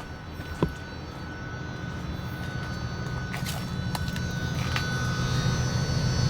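Semi-truck diesel engine running, gradually growing louder, with a sharp click just over half a second in.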